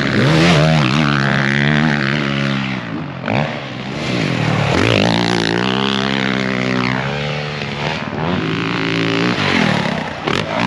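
Motocross bike engine revving hard while ridden around a dirt track, its pitch climbing and dropping every few seconds as the throttle is opened and shut.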